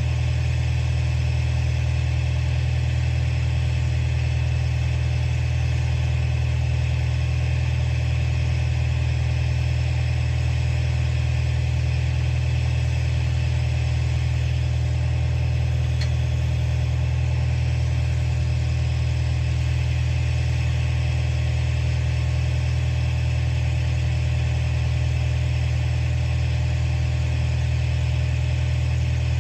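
Komatsu bulldozer's diesel engine running at a steady, unchanging speed.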